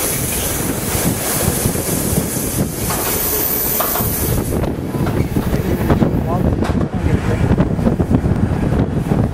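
Wind buffeting the microphone held out of a moving Amtrak passenger train, over the rumble and clatter of the train's wheels on the rails. About halfway through the wind hiss eases, leaving the low rumble with sharp clicks from the track.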